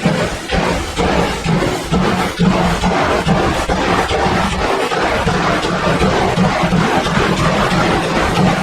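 Märklin model steam locomotives' sound decoders chuffing continuously as the locos haul a long train, mixed with the rolling rumble of the model train on the track.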